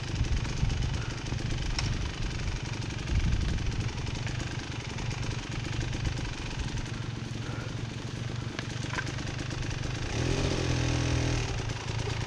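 Dirt bike engine running at idle with a fast, even pulse. About ten seconds in it rises briefly in revs and grows louder.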